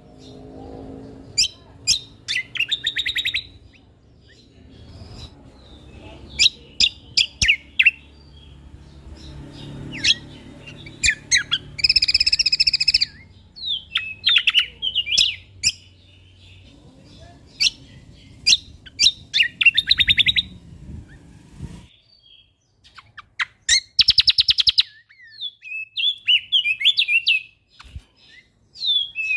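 A songbird singing a varied song of quick sharp chirps, short fast trills and a buzzy rattle about twelve seconds in, with a low background rumble that drops away about two-thirds of the way through.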